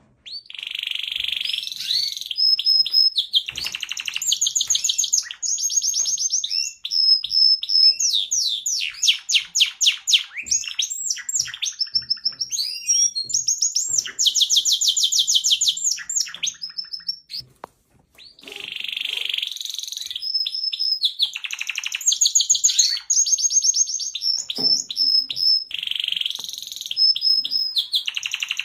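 Domestic canary singing a long, varied song of fast trills, rolls and repeated whistled notes, with a short break about two thirds of the way through before the song starts again.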